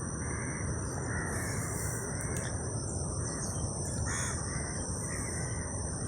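Crows cawing a few times, the clearest call about four seconds in, over a steady outdoor background hiss and a steady high-pitched drone.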